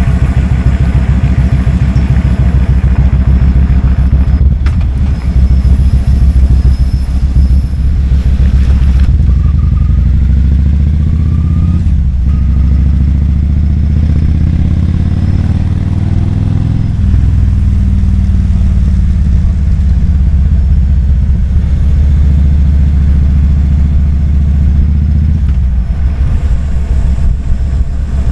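Kawasaki Vulcan 2000's big V-twin engine running loudly with a deep exhaust note. About midway its pitch climbs for a few seconds, then falls back sharply.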